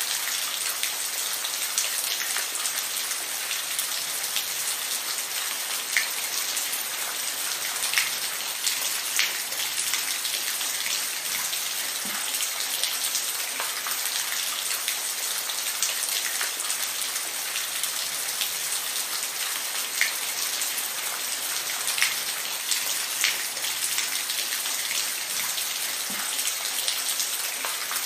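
Steady rain falling, an even hiss with scattered individual drops tapping sharply on a hard surface.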